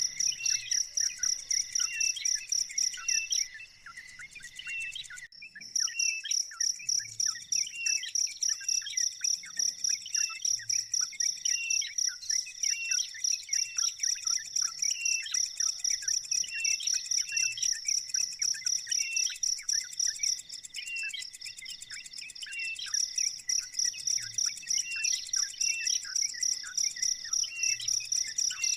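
Cricket-like high chirping pulsing evenly at about three beats a second, with short repeated bird chirps beneath it. The pulsing stops briefly twice.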